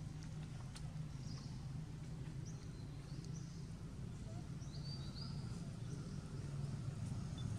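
Quiet outdoor ambience: a steady low hum with a few short, high bird chirps in the middle.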